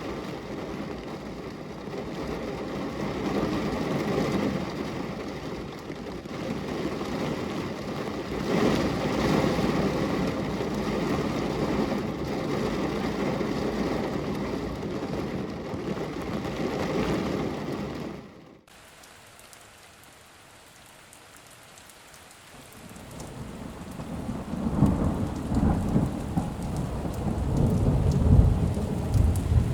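Thunderstorm: steady rain with thunder rumbling over it. About two-thirds of the way through the sound drops suddenly to quieter rain, then thunder rolls in again and builds to loud peaks near the end.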